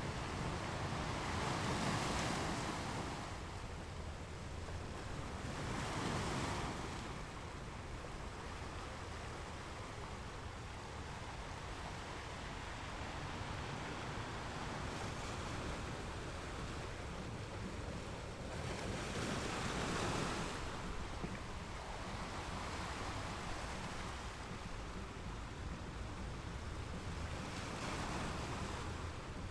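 Ocean surf washing onto a shore: a continuous hiss of water over a low rumble. Louder waves break and wash in about two seconds in, around six seconds, near twenty seconds and again near the end.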